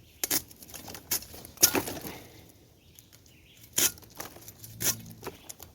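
Knife cutting the spiny skin off a pineapple: about five short, sharp cutting strokes at uneven intervals.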